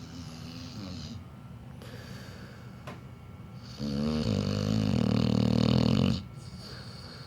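Pit bull snoring in its sleep: soft breathing snores, then about halfway one long, loud snore lasting a couple of seconds.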